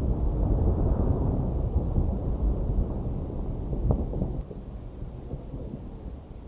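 Aerial fireworks shells bursting in rapid succession, a dense rolling rumble of booms with one sharper bang about four seconds in. The barrage dies away suddenly just after that, leaving a quieter rolling echo.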